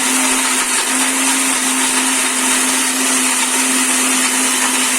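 Electric mixer grinder running, grinding a cooked onion, tomato and cashew mixture into a paste: a steady whirring with a constant motor hum.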